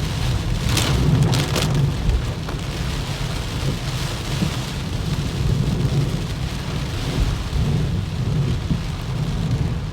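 Heavy typhoon rain pounding on a car that is driving, under a steady low rumble of road and engine noise. A few brief sharp noises come close together about a second in.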